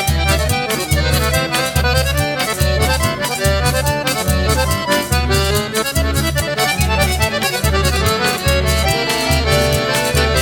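Instrumental forró pé de serra: an accordion plays a running melody over a steady pulsing bass beat and quick high ticks, with no singing.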